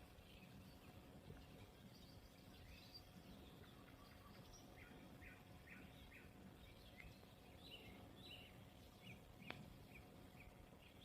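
Faint spring birdsong: many short chirps and call notes from small birds, with a single sharp click near the end.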